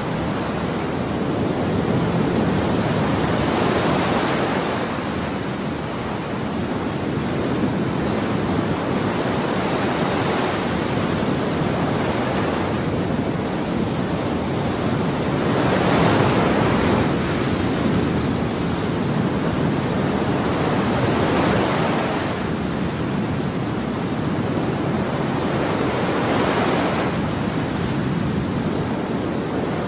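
Ocean surf: waves breaking and washing ashore in a continuous rush that swells every several seconds as each wave comes in.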